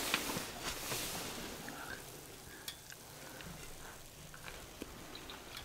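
Pond smelt frying in oil in a pan, a steady sizzle with small crackles, loudest in the first second or so and then easing off.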